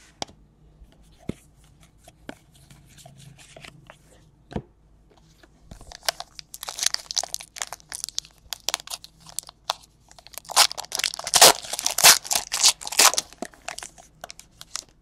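Foil trading-card pack being torn open and its wrapper crinkled: a few light clicks and rustles at first, then a dense crackling run through the second half, loudest near the end.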